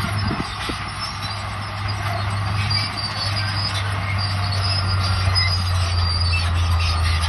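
Crawler bulldozer working: its diesel engine runs at a steady low hum while the steel tracks give off repeated high metallic squeaks.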